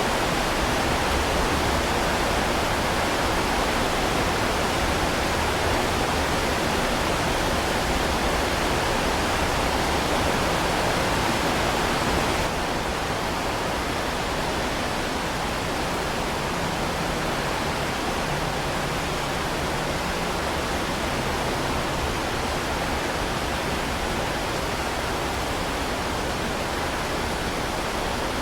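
Heavy rain falling as a dense, steady hiss. About twelve seconds in it steps down suddenly to slightly quieter and duller, like a splice in a looped recording.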